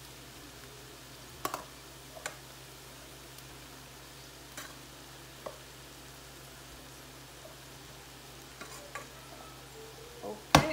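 Mixed vegetables sizzling faintly in an aluminium pot under a heap of cooked white rice, with a few light utensil clicks against the pot and a sharper knock near the end.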